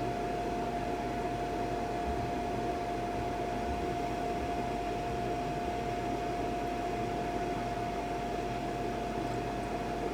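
Monitor 422 kerosene heater running just after its burner has lit: a steady rush of air from its fan, with a constant mid-pitched whine.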